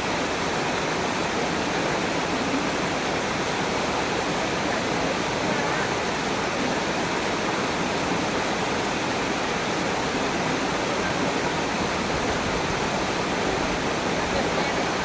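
Waterfall rushing steadily, an even, unbroken wash of falling-water noise.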